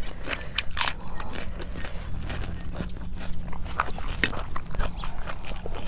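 Close-up chewing and crunching of crispy blanched squid, with irregular crunches and mouth clicks over a steady low hum.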